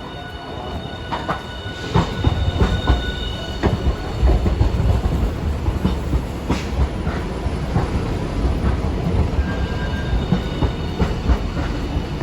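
A Hiroshima Electric Railway streetcar moving over the tracks, its low running rumble growing from about two seconds in. Repeated sharp clacks come from the wheels crossing rail joints and points.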